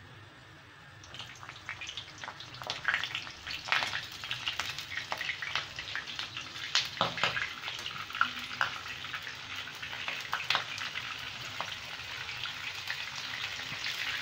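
Pointed gourds (potol) frying in hot oil in a pan: a steady sizzle with many sharp crackles and spits, starting about a second in and building as more pieces go in.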